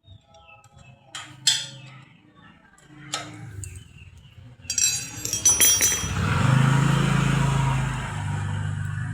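Metal scroll-saw parts knocking and clinking as they are handled, with a rattle of metallic clinks about five seconds in, followed by a steady low hum.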